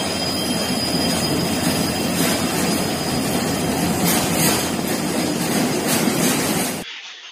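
Freight train of BTPN petroleum tank wagons running past at close range: a loud, steady rumble of wheels on rail, with several sharp clacks as the wheels cross rail joints. A faint high whine sounds for the first two seconds, and the sound cuts off abruptly near the end.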